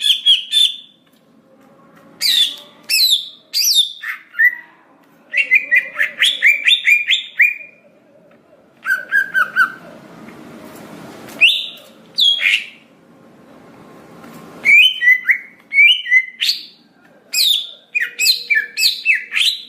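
Cucak hijau (green leafbird) singing: phrases of rapid, sliding chirps and whistled notes, broken by short pauses, with faint background noise in the middle.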